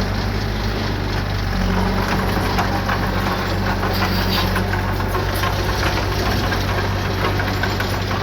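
Diesel engine of heavy earthmoving equipment running steadily at low speed, with an even, fast knocking in its note.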